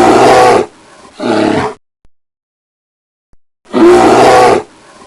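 Grizzly bear roaring: a long, loud roar followed by a shorter one, then after a pause of about two seconds the long roar comes again.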